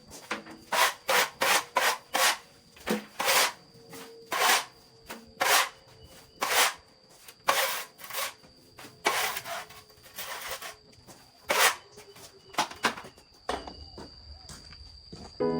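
Hand saw cutting through wood: a series of rasping strokes, about two a second at first, then slowing to about one a second before stopping near the end.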